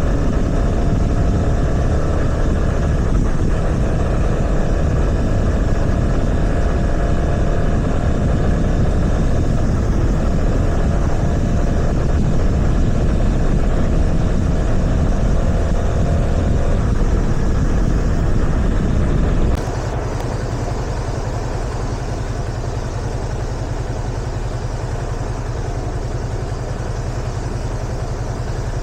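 Yamaha FZS25's single-cylinder engine running under way, mixed with wind and road noise. About two-thirds through the sound drops suddenly to a quieter, steadier low engine note.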